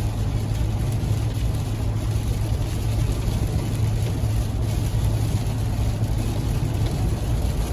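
Steady low vehicle drone with a hiss of noise over it, even throughout.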